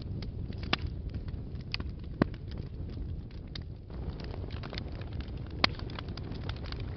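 Wood fire burning in a fireplace: a steady low rumble of flames with irregular crackling and sharp pops, a few of them louder, one about two seconds in and one near the end.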